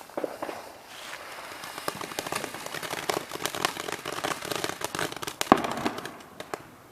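Fireworks crackling: a dense run of small pops and cracks that thickens through the middle, with one louder bang about five and a half seconds in, then thins out near the end.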